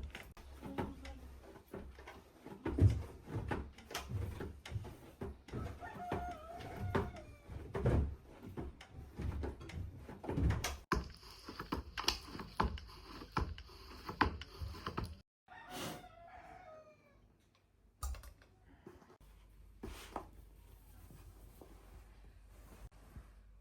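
Irregular knocks and thuds, with a rooster crowing twice, about a third of the way in and again after the middle.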